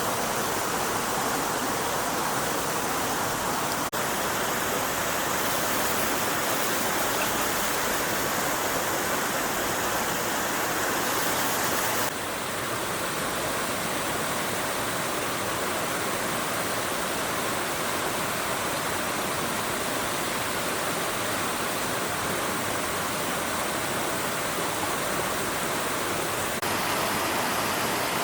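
Stream water rushing steadily, with a slight drop in level and a change in tone about twelve seconds in.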